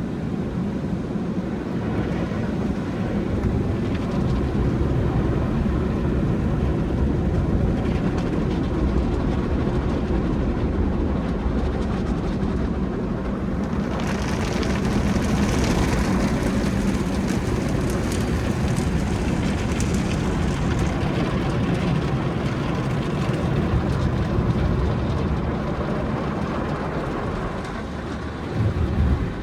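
Conveyor car wash tunnel in operation: a steady low rumble of the wash equipment with water spraying over a car. A louder, brighter spray hiss comes in about halfway through and eases off several seconds later.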